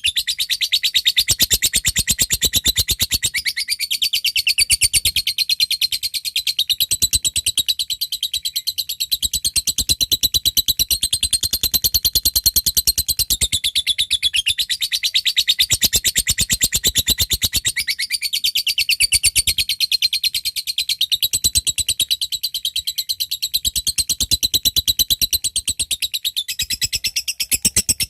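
A lovebird chattering non-stop in a long, fast run of sharp repeated notes: the extended chatter that keepers call ngekek panjang.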